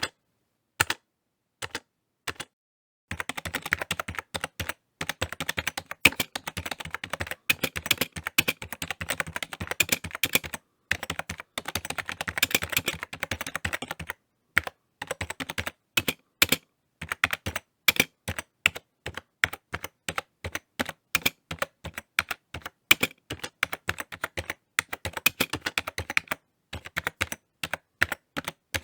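Typing on a computer keyboard: quick runs of key clicks in bursts, broken by short pauses of a second or so.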